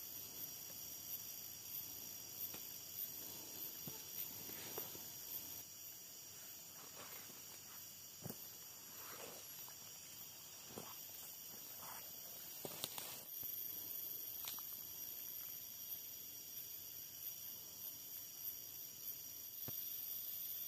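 Forest ambience: a steady high-pitched drone of insects, with scattered soft crackles and rustles of movement through leaf litter.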